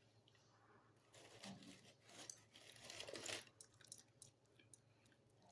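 Faint crackling and rustling, like paper or a wrapper being handled, for about two and a half seconds, with a few scattered clicks.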